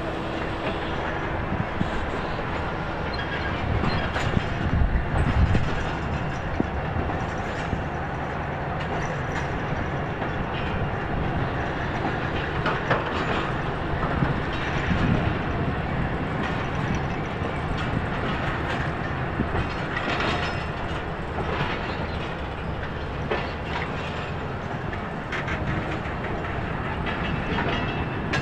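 Passenger coaches of a departing train rolling slowly past: a steady rolling noise from the wheels on the rails, with scattered clicks and knocks as the wheels pass over the track.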